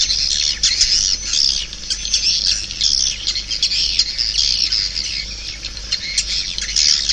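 Swiftlet calls: a dense, continuous chorus of many short, high chirps and twitters with no pause. It is a swiftlet lure recording, the kind played through tweeters to draw swiftlets into a nesting house.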